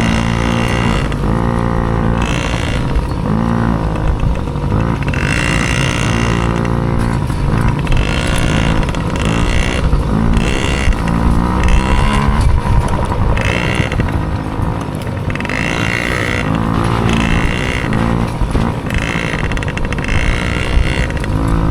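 Dirt bike engine revving up and dropping back repeatedly, about every one to two seconds, as the throttle is worked on and off.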